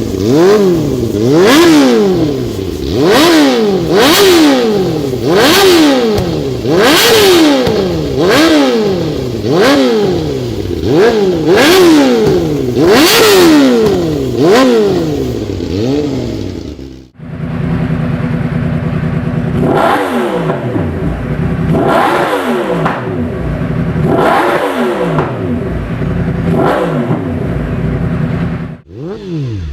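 Yamaha inline-four sportbike engines being free-revved, the pitch rising and falling with each blip, about one every second and a half. About two-thirds of the way through the sound cuts to another bike running lower with slower, less frequent revs.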